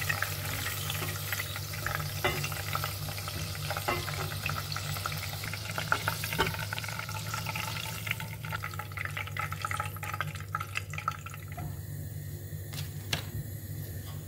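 Potato sticks frying in hot oil, a steady sizzle with crackles, as a plastic slotted spoon stirs and scoops them, with light clicks of the spoon against the pot. The sizzle thins out in the second half.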